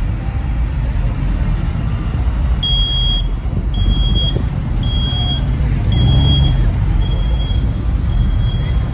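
Vehicle engines running with a steady low rumble. From about two and a half seconds in, a high electronic beep repeats about once a second, each beep about half a second long.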